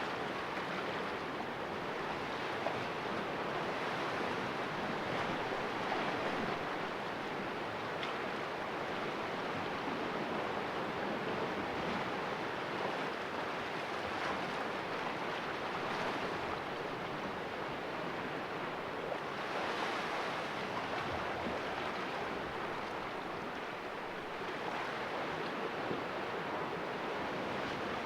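Small sea waves washing and splashing against the rocks of a sheltered cove, a steady wash that swells and eases gently.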